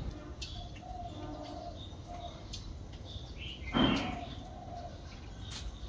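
Small birds chirping intermittently over steady outdoor background noise, with a brief, louder unidentified sound about four seconds in.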